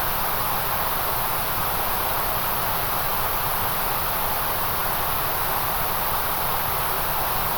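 Steady synthetic white noise: an even, unchanging hiss with no events, its energy strongest in a band around 1 kHz and in the very high treble.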